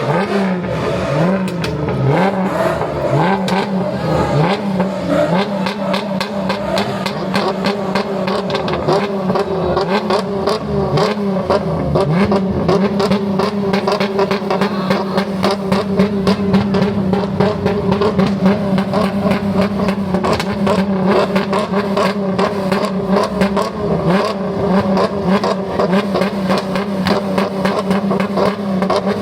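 Dodge Charger Hellcat Redeye's supercharged V8 running, its pitch rising and falling with the throttle for about the first twelve seconds, then held steady.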